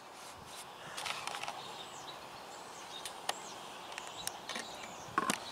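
Faint outdoor background with small birds chirping in the distance and a few scattered light clicks.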